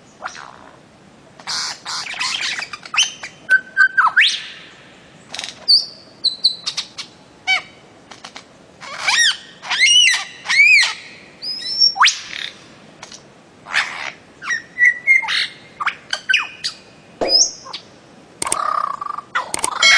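Bird-of-paradise (cendrawasih) calling: a busy run of loud chirps, squawks and whistled notes, some arching up and down in pitch, mixed with sharp clicks.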